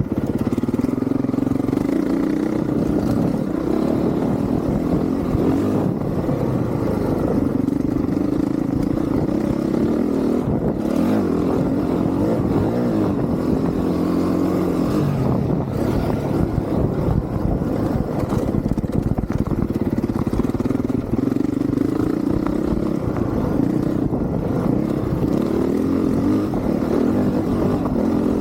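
Honda CRF450R dirt bike's single-cylinder four-stroke engine being ridden hard on a motocross track, its pitch climbing and dropping again and again as the throttle is opened and closed.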